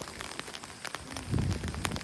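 Rain falling, with scattered drops ticking sharply and irregularly on a nearby surface, and a brief low muffled sound about one and a half seconds in.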